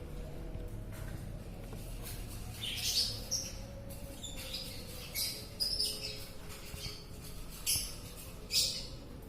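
Budgerigars giving short, high chirps in irregular bursts, the loudest about three seconds in and again near the end.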